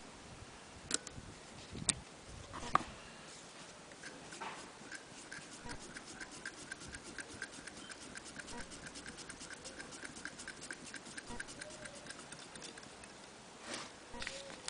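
Antique Willcox & Gibbs sewing machine mechanism running slowly, giving an even, light ticking about five times a second for several seconds, preceded by a few sharp handling clicks.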